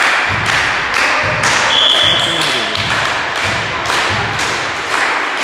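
A steady thudding beat, about two thumps a second, under the loud din of a busy hall.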